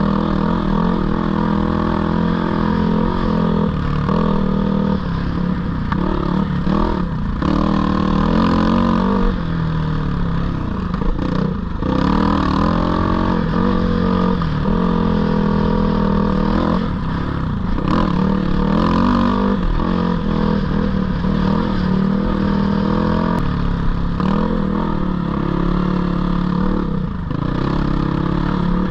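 Dirt bike engine running throughout, its pitch rising and falling again and again as the throttle is opened and closed.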